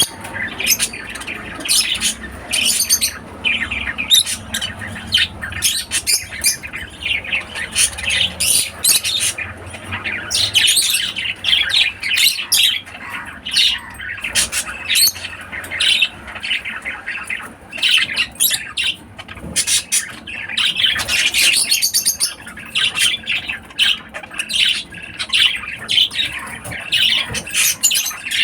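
Lovebirds squawking and chirping without pause: a dense, high-pitched chatter of short calls, several a second.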